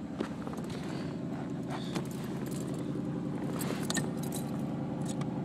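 Cadillac 4.5 V8 idling steadily, heard from inside the cabin, with a few clicks and knocks as the front center armrest is handled.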